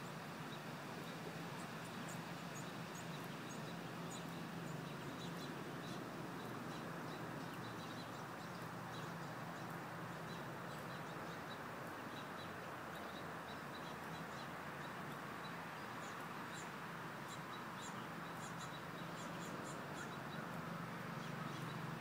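Small birds chirping, short high notes scattered throughout, over a steady outdoor background hum.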